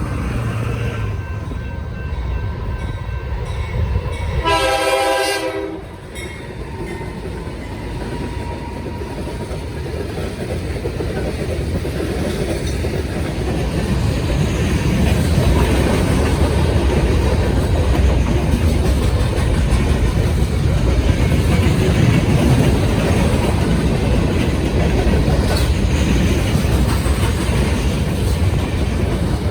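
A train passing on a railroad main line. About four seconds in, one horn blast lasts about a second and a half. Then comes the steady noise of wheels on the rails, which grows louder from about halfway through.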